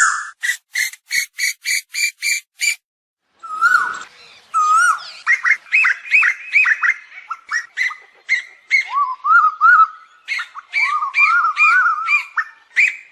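Asian koel calls: a quick series of about eight short, evenly spaced notes, then after a brief pause a long run of overlapping rising-and-falling whistled notes, as of several birds calling at once.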